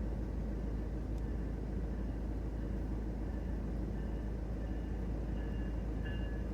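Siemens Charger-hauled passenger train approaching: a steady low rumble, with a faint pair of high-pitched tones that grow stronger through the second half.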